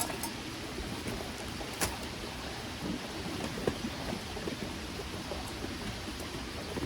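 Steady rushing of a small mountain stream, with a few light sharp clicks, the loudest at the very start and about two seconds in.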